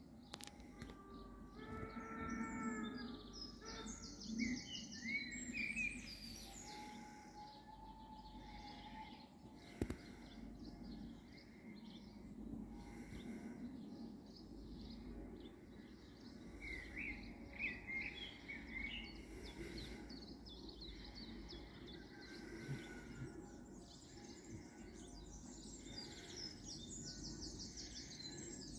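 Songbirds chirping and trilling over a steady low background rumble, with a short pitched call about two seconds in and a sharp click about ten seconds in.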